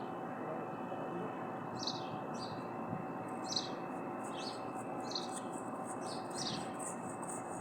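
Small birds chirping: short falling chirps about once a second, with a quicker, higher twittering near the end, over a steady outdoor hiss.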